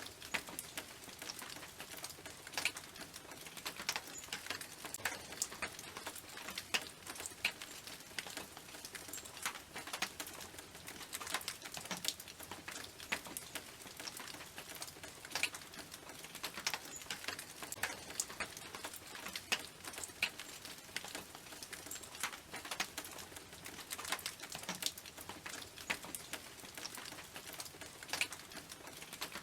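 Rain on a tin roof: a steady hiss of rain with many sharp, irregular drop hits ticking on the metal.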